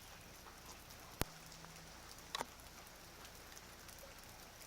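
Rain falling, a soft steady hiss with scattered small drop ticks. A sharp click about a second in and a weaker one about two and a half seconds in stand out above it.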